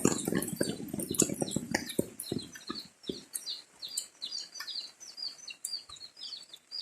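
Water splashing and dripping for the first few seconds, fading out, then many short high chirps from birds, several a second and continuing.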